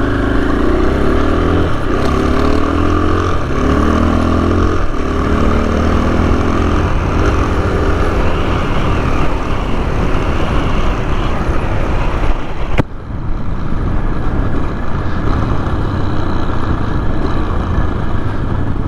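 Motorcycle engine accelerating up through the gears, its pitch climbing and dropping back at each of about four shifts, then cruising with heavy wind rush over the engine. A sharp click and a short dip in level come about two-thirds of the way through.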